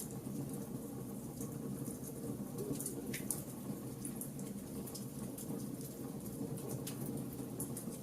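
Wood fire burning, with a steady low rush of flame and scattered sharp crackles and pops from the burning wood; a few pops stand out, about three seconds in and again near the end.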